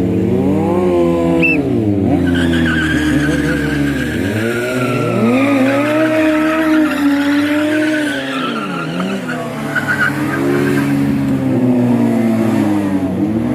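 Sport motorcycle engines revving up and down during a stunt display, with a long tyre squeal from about two seconds in until near the end.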